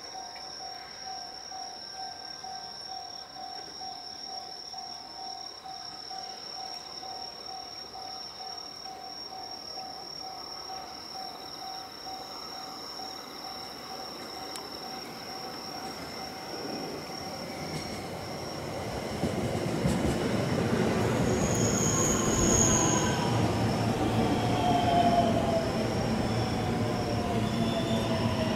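A 521 series electric train approaching over steady insect chirping, growing louder about two-thirds of the way in as it reaches the platform, then giving a falling whine as it slows.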